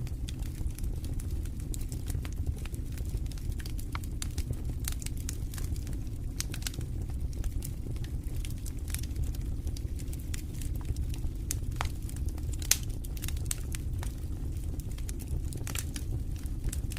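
Wood fire burning in a fireplace: a steady low rumble of flames with frequent sharp crackles and pops, one louder pop about thirteen seconds in.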